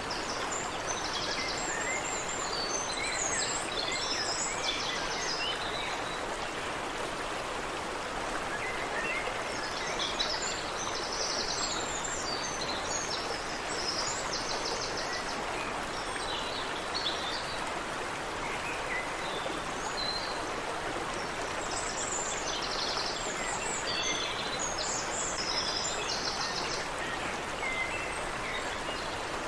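Stream water running steadily, with songbirds chirping and trilling over it in three spells: near the start, in the middle, and near the end.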